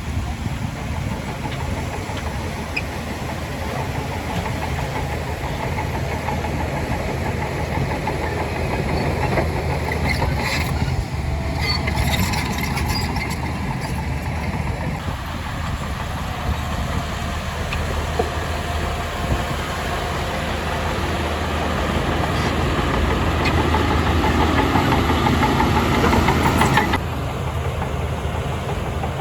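Heavy earthmoving machinery's diesel engine running steadily under work, with a run of sharp clanks about ten to thirteen seconds in. Near the end the higher noise cuts off suddenly, leaving the low engine hum.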